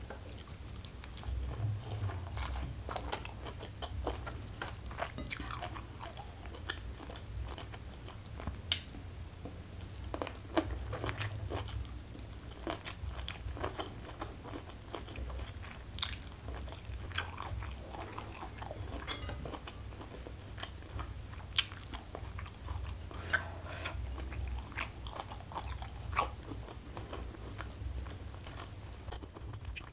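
Close-miked chewing of a mouthful of rice and fried salted fish, with crunching and many small wet mouth clicks and crackles throughout.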